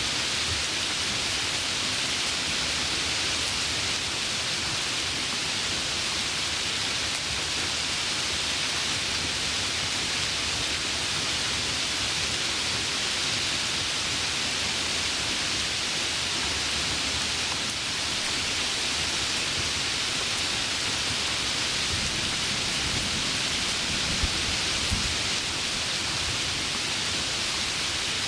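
Heavy rain falling in a steady, even hiss, with a few low rumbles of thunder near the end.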